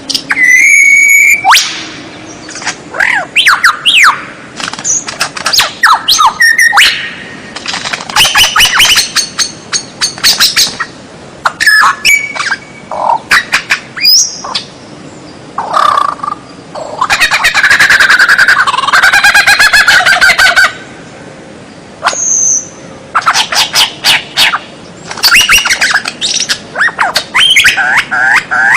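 White-rumped shama (murai batu) singing a loud, varied song of whistled glides, rapid runs of notes and harsh squawk-like calls. The phrases come in bursts with short pauses between them, including one long, dense trill of several seconds.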